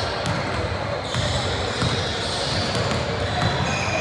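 A basketball bouncing repeatedly on an indoor court during play, with voices around it.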